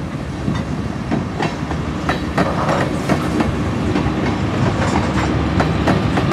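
Freight train backing past: tank cars and a boxcar rolling by with wheels clacking over the rail joints, over a low rumble. The diesel engines of two GE B39-8E locomotives grow louder as they draw near, adding a steady low drone.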